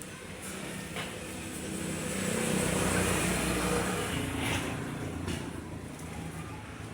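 A road vehicle passing by, its engine and tyre noise swelling to a peak about three seconds in and then fading, with a few light clicks.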